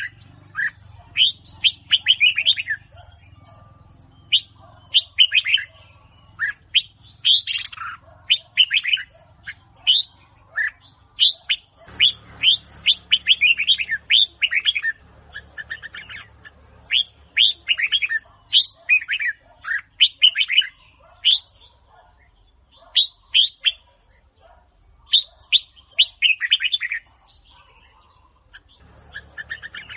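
Red-whiskered bulbul singing: short phrases of quick, sweeping whistled notes, repeated with brief pauses between them. A faint low hum sits underneath in places.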